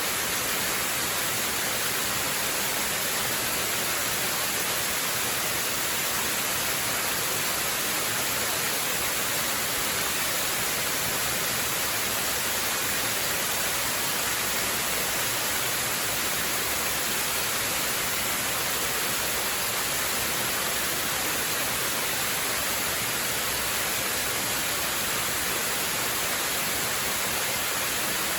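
Waterfall: a steady, unbroken rush of falling water, hissy, with little low rumble.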